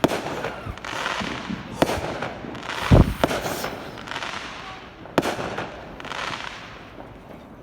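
Fireworks going off: several sharp bangs, the loudest and deepest about three seconds in, with a crackling hiss between them that fades away near the end.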